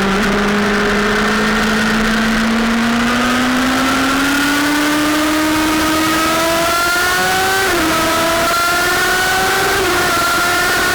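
Sportbike engine accelerating hard, its pitch climbing steadily and dropping briefly twice in the second half as it shifts up a gear, over a steady rushing noise.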